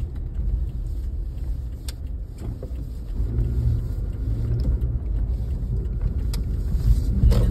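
A car's engine and tyres rumbling steadily inside its cabin while driving, with a few brief clicks.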